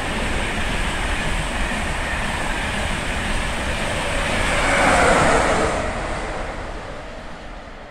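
InterCity 225 train with its Class 91 electric locomotive passing by: a rushing rumble of wheels on rail that grows, is loudest about five seconds in, then fades away.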